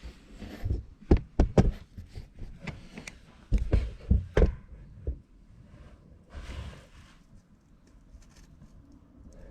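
A series of sharp knocks and clunks in two quick clusters, like hard parts or tools being handled, followed by a short rustling scrape about six and a half seconds in.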